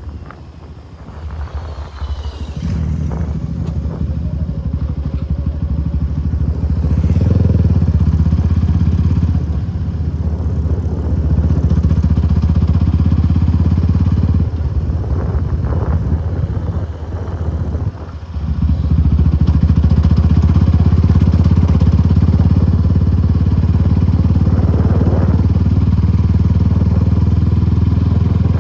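Suzuki Gixxer SF250's single-cylinder engine running through an aftermarket Akrapovic exhaust while riding: quiet for the first two seconds, then a steady engine note. It drops off briefly a couple of times about two-thirds of the way through as the throttle is closed, then pulls strongly and steadily again.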